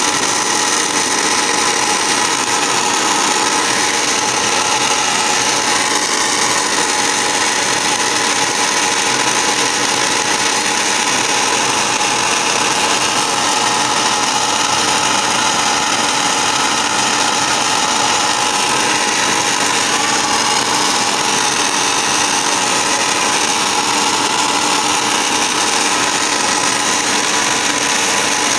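Home furnace running with a loud, steady mechanical whir and several constant whining tones, the start-up noise the owner is documenting.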